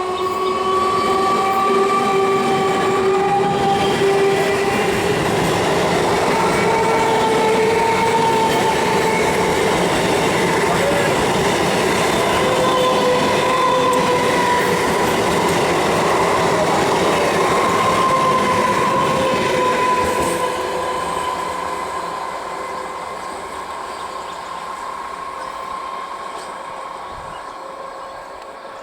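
An electric multiple unit (EMU) local train passing at speed, its wheels rattling on the rails, with several steady tones that slowly shift in pitch. It is loud for about twenty seconds, then fades as the train moves away.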